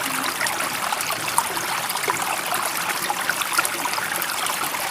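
Steady running water, trickling and bubbling evenly with many small splashes.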